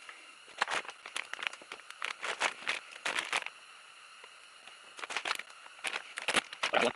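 Handling of small parts and plastic packaging: irregular crinkling rustles and light clicks in short clusters, with a quieter pause in the middle.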